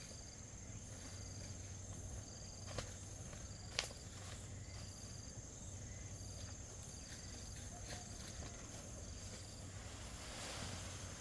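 Insects chirping outdoors: a steady high trill with a short chirp repeating about once a second. Two sharp clicks come about three and four seconds in.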